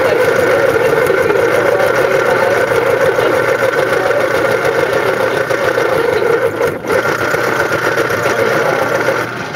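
Electric pencil sharpener's motor running steadily with a pencil in it, with a brief dip about seven seconds in.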